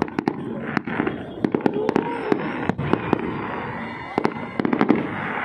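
Fireworks going off, a rapid string of sharp cracks and pops coming in clusters, over the chatter of a crowd of onlookers.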